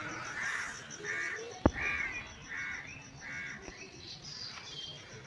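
A bird calling: a run of about five short calls, evenly spaced about two-thirds of a second apart, with a single sharp click partway through.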